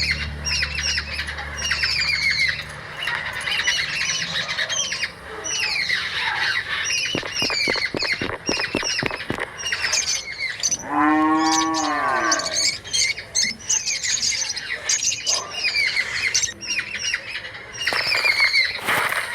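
A flock of birds calling: many short, downward-sliding chirps overlapping without pause. About eleven seconds in comes one longer, lower call that falls in pitch.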